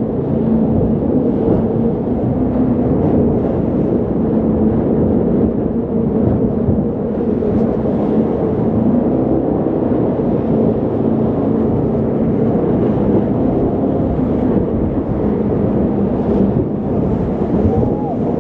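Jet boat engine running steadily under way, a loud continuous drone with a low, slightly wavering pitch.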